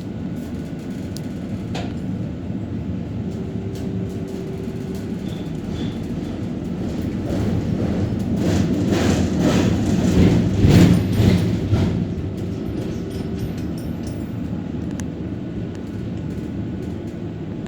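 Tram running along its rails with a steady low rumble, which swells with a run of clatter over the track about eight to twelve seconds in.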